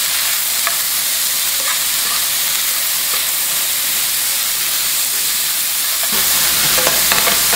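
Chicken, andouille sausage and diced onion and peppers sizzling in a hot frying pan while the vegetables sweat, stirred with metal tongs that tick and scrape against the pan now and then. The stirring gets more vigorous and louder about six seconds in.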